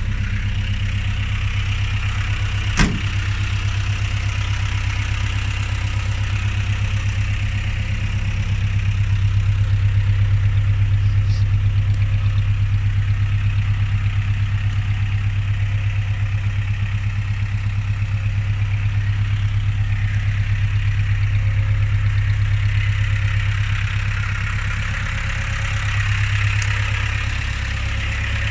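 Jeepster Commando engine idling steadily, swelling a little in level now and then, with a single sharp click about three seconds in.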